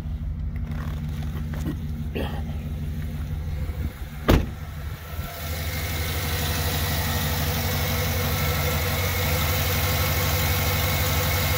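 2007 GMC Yukon Denali's 6.2-litre V8 idling steadily, its oil dosed with Seafoam and ATF to clean the engine of the deposits blamed for its low oil pressure; it sounds decent and is not making a lot of noise. It is heard first from inside the cab, then, after a single loud thump about four seconds in, louder and brighter from under the open hood.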